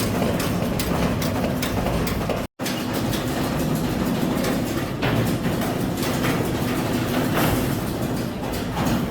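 Steady mechanical running noise with a low hum and frequent scattered clicks, cut off for an instant about two and a half seconds in.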